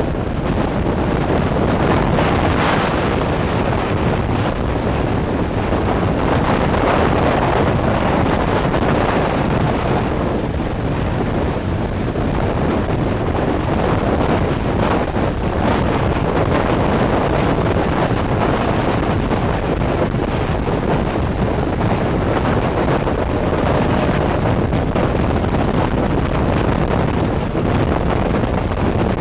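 Wind rushing over the microphone held out of a moving train's carriage window, over the train's steady running noise.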